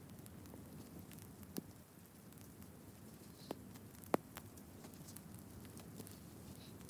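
Small wood fire crackling faintly, with scattered soft ticks and three sharper snaps, the loudest about four seconds in.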